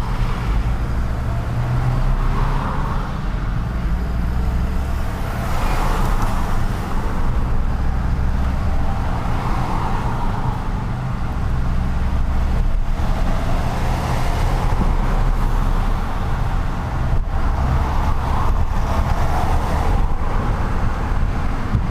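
Truck engine running under way, a steady low drone, with road and city traffic noise that swells and fades every few seconds.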